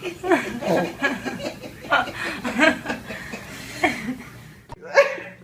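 Laughter in short, repeated bursts of chuckling.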